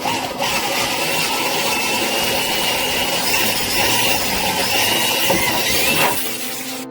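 Power saw cutting through wood with a steady, loud rasping whine, stopping about six seconds in.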